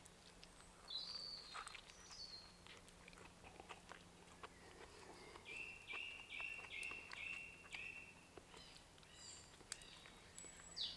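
Faint chewing of a soft bread-roll sandwich, with quiet birdsong behind it. Whistled bird notes come about a second in, a bird repeats one short note about six times in a row around the middle, and higher notes come near the end.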